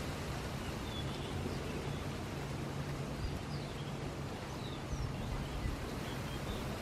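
Steady seaside wind and surf noise, with faint, short bird chirps scattered through it.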